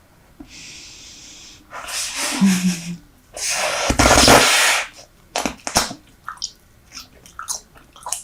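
Super Bubble bubble gum being blown and popped close to the microphone: two loud breathy bursts of air, the second with a low thump. Then comes a run of quick wet smacks and clicks from chewing the gum.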